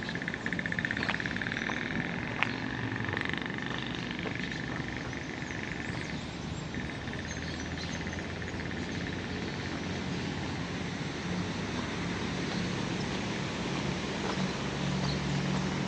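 Frogs calling with a steady, fast-pulsed trill that breaks off about six seconds in and returns fainter. A single sharp click comes early on, and a low engine hum grows near the end.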